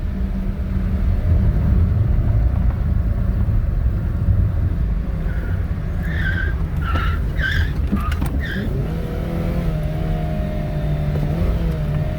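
An old Dodge's engine rumbling loudly as it is driven hard. A run of about five short, high squeaks comes in the middle, and after that the engine settles to a steady pitch.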